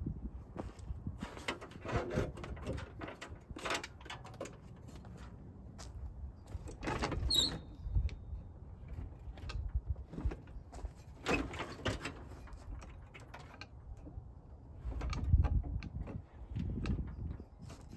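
Irregular metallic clunks, knocks and scrapes as a car engine is worked loose and slid out from its transmission, with a brief squeak about seven seconds in.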